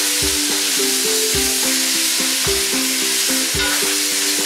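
Lamb pieces and tomato paste sizzling steadily in a hot cast-iron Dutch oven as a utensil stirs them, over background music.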